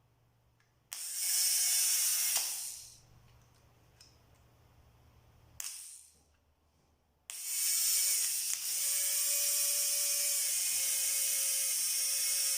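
Small brushed electric motor, just reassembled, test-run on power: it spins up briefly about a second in, gives a short blip near six seconds, then runs steadily with a high whine over brush hiss from about seven seconds on.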